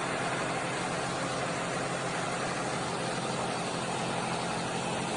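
A vehicle engine running steadily, with an even hiss over a faint low hum and no change in level.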